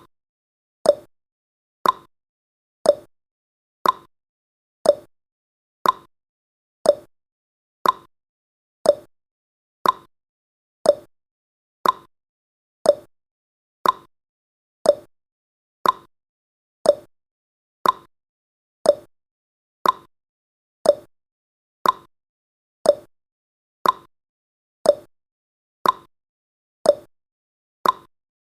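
Countdown timer's ticking sound effect: one short, sharp tick every second, evenly spaced, with silence between.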